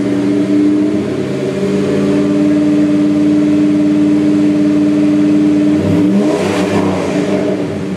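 Exhaust of a 5.9-litre 360 V8 through a 3-inch Thrush muffler, the engine held at a steady raised speed for several seconds, then dropping back about six seconds in with a short rough rush of exhaust as it settles.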